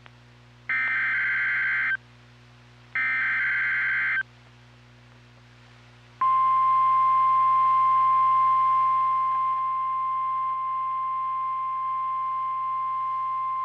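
NOAA Weather Radio emergency alert signalling: two bursts of SAME digital header data, each a harsh warbling screech lasting about a second, then about two seconds after the second burst the steady 1050 Hz warning alert tone begins, one continuous unbroken beep that runs on to the end. The tone marks a warning being broadcast, here a winter storm warning.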